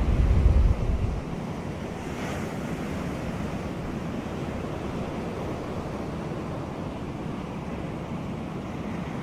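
Sea surf washing onto a beach as a steady, even rush of water. A low rumble of wind buffeting the microphone is loudest in the first second, and a brief brighter hiss comes about two seconds in.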